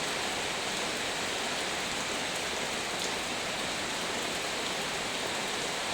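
Heavy rain falling steadily, an even dense hiss with a few sharper drop ticks.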